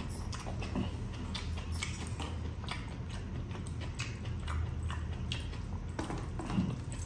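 Close-miked eating sounds: chewing and wet lip smacks, an irregular string of soft clicks, as biryani is chewed and scooped up by hand, over a steady low hum.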